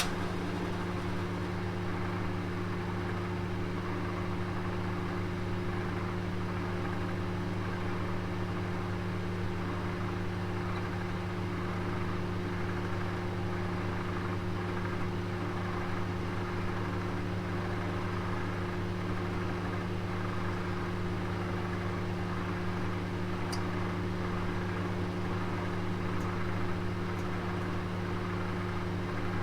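Oven running: a steady low hum over an even airy hiss, with a few faint ticks near the end.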